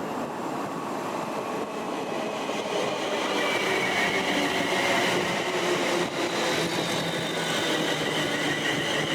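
Two Class 168 diesel multiple units approaching and passing on the rails, the train noise growing steadily louder, with a high, slightly rising whine coming in from about three seconds in.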